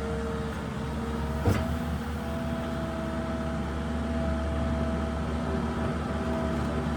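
New Holland LS170 skid steer's diesel engine running steadily while the machine works, with a single sharp clank about one and a half seconds in.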